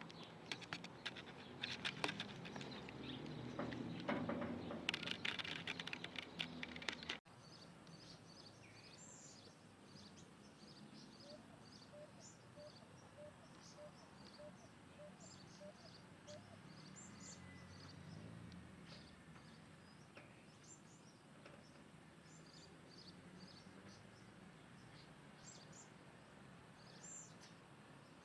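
Birds chirping outdoors, with scattered short, high calls. In the middle comes a run of about a dozen evenly spaced low notes. The first several seconds are dominated by close rustling and tapping clicks, which cut off suddenly about seven seconds in.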